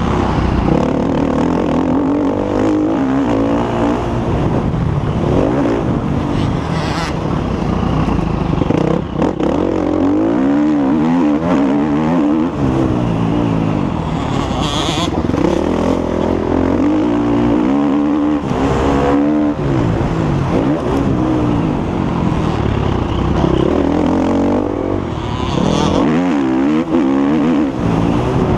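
Motocross bike engine revving hard and falling off again and again as it accelerates and slows around a dirt track, with a few short rushes of noise.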